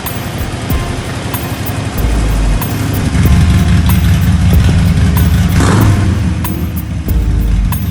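Harley-Davidson Sportster 1200 Forty-Eight's air-cooled V-twin running through a Jekyll & Hyde exhaust, getting louder about three seconds in.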